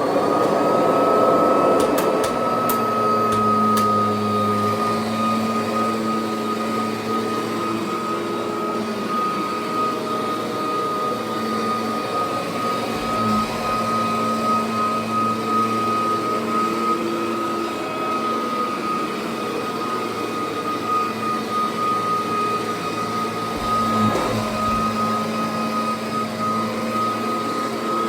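Kirby Sentria upright vacuum cleaner fitted with the older six-vane fan, running steadily with a high, even whine after just coming up to speed.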